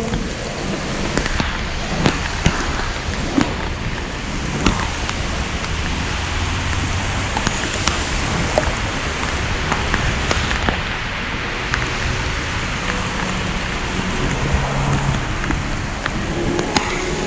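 Steady rain noise with scattered sharp taps of raindrops striking close to the microphone.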